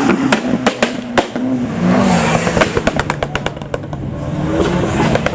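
A modified car's engine revving and easing off, its exhaust popping and crackling in a string of sharp cracks as the revs fall.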